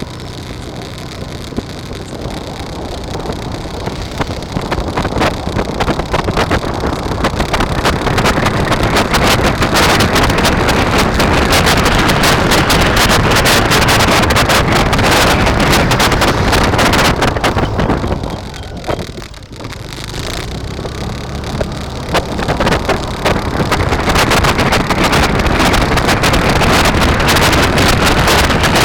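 Wind buffeting the microphone of a riding camera, a steady rushing noise that builds over the first few seconds, eases briefly about two-thirds of the way through, then picks up again.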